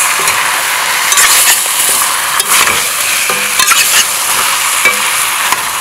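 Curry-seasoned chicken legs sizzling as they stir-fry in a stainless steel pot, a metal spoon stirring them with scraping strokes against the pot.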